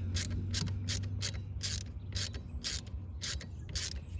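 Hand ratchet clicking in steady back-and-forth strokes, about two to three clicks a second, as a Torx screw is driven in.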